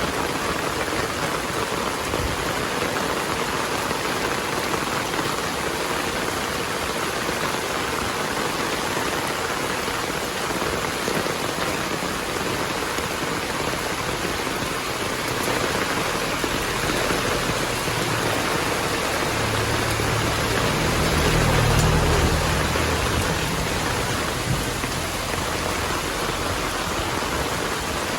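Heavy rain falling steadily. A low rumble of thunder builds up about two-thirds of the way through and fades away.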